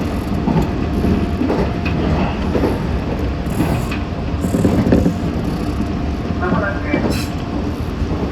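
Meitetsu 6500 series electric train running, heard from inside the car: a steady rumble with scattered clicks from the wheels on the rails.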